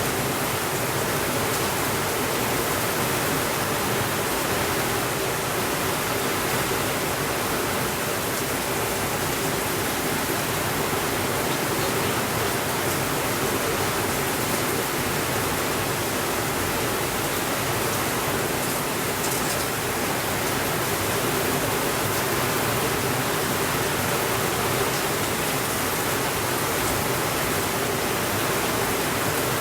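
Steady, even rainfall, a constant hiss without thunder.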